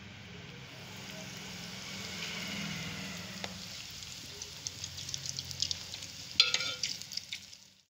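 Bread slices frying in hot ghee: a steady sizzle, with sharp crackles growing more frequent in the second half, and a louder clink with a brief ring about six and a half seconds in.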